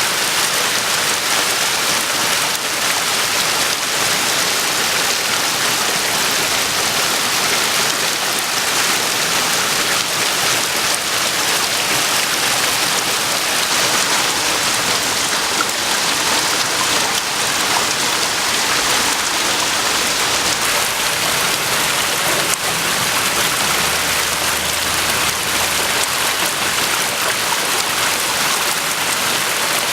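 Steady, unbroken rushing water noise, the sound of heavy rain and the flooded creek.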